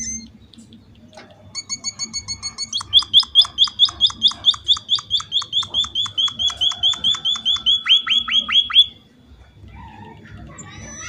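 A small emprit finch singing a long, fast trill of repeated sharp chirps, about five a second, that stops abruptly a couple of seconds before the end.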